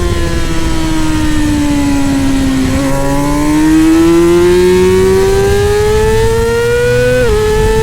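Middleweight superbike engine at racing revs. Its pitch falls for the first few seconds as the bike slows, then climbs steadily under acceleration, with a quick upshift drop near the end.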